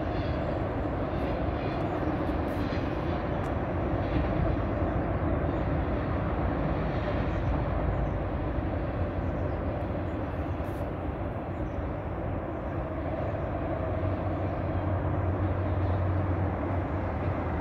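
CSX autorack freight cars rolling steadily past, a continuous noise of steel wheels running on the rails with a few faint clicks.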